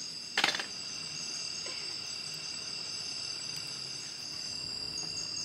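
Steady insect chorus of crickets or cicadas, several high buzzing tones held level, with one sharp knock about half a second in.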